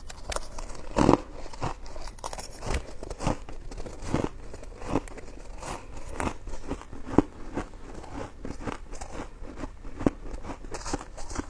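Close-miked chewing and biting of coconut sticky rice cake: a steady run of short, irregular mouth clicks and smacks, with sharper bites about a second in and again near the middle and the end.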